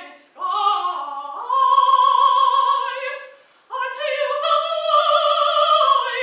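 Mezzo-soprano singing a slow classical art song. Notes are held long with vibrato: a phrase ends on a sustained note, there is a short breath about three and a half seconds in, then a higher note is held.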